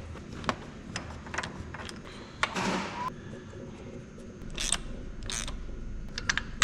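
Scattered light clicks and knocks of hand tools and parts being handled, with a short scrape about two and a half seconds in.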